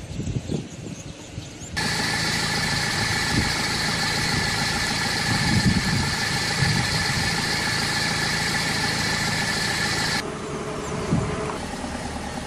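A car engine running steadily, with a level hum and whine that begins suddenly about two seconds in and stops abruptly near the end.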